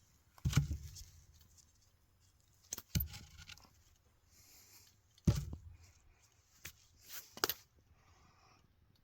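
Three heavy thumps a couple of seconds apart, then a few lighter knocks near the end.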